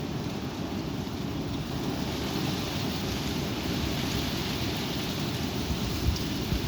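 Strong wind blowing and buffeting the microphone, a steady rushing noise with low, fluttering gusts.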